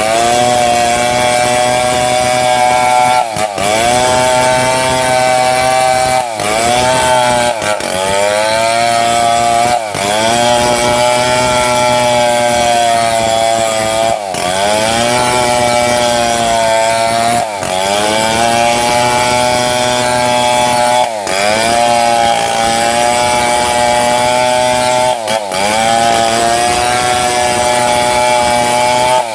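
Two-stroke chainsaw under load, cutting mahogany along its length to split it. The engine runs steadily, and every three to four seconds its speed briefly drops and climbs back.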